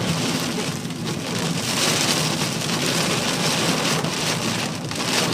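Heavy rain hitting a truck's roof and windshield, heard from inside the cab while driving, a steady dense hiss over a low rumble of engine and road noise.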